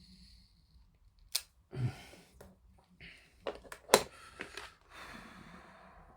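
Masking tape being handled on a plastic model kit: a few sharp clicks and taps of plastic, the loudest about four seconds in, with short rasping stretches of tape coming off the roll and being torn, the longest near the end.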